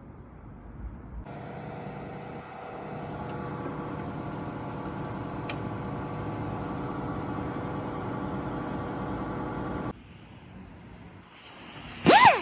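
Steady machine hum with several even tones that cuts off suddenly near the end. Then a handheld power tool spins up with a loud, fast-rising whine.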